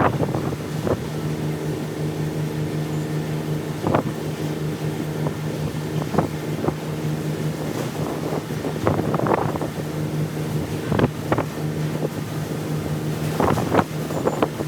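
A machine running with a steady low hum, with scattered short knocks and clicks over it.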